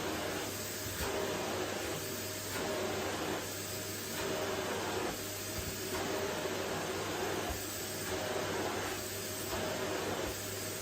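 Vacuum cleaner running steadily on a wooden floor, a dense hiss over a low hum. Its sound swells and eases in a regular rhythm about every second and a half, as the cleaner head is moved back and forth.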